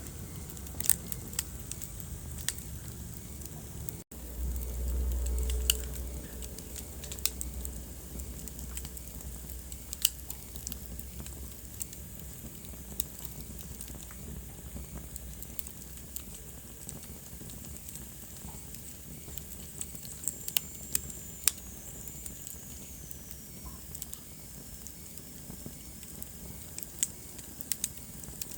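Wood fire crackling in a fireplace, with sharp pops scattered throughout over a low rumble of the flames. The sound cuts out briefly about four seconds in, then the low rumble comes back louder for a couple of seconds, and a faint high whistle falls in pitch about twenty seconds in.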